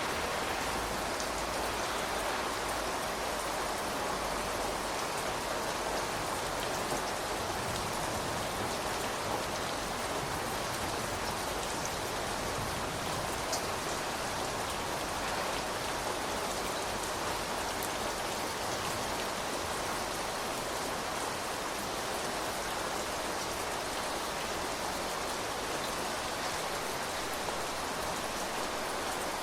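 Steady rain: an even, unbroken hiss of falling rain with faint scattered drop ticks.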